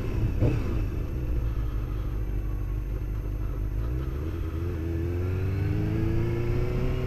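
Motorcycle engine running while riding, with low wind rumble. About four seconds in, its pitch rises steadily as the bike accelerates.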